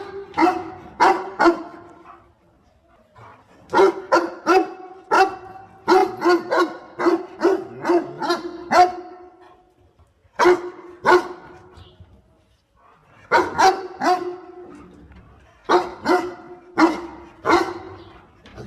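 A dog barking in volleys of quick, pitched barks, about two a second, with gaps of one to two seconds between volleys.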